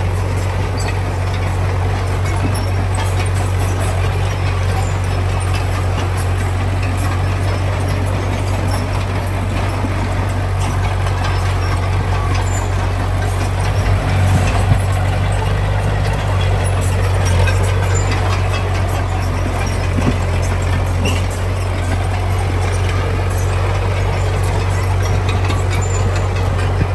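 Heavy diesel engine of earthmoving machinery running steadily with a strong low drone, swelling slightly partway through.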